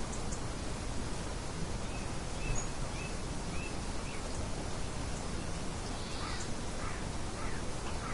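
Steady wind noise, an even rushing hiss, with several short bird chirps in the middle and again near the end.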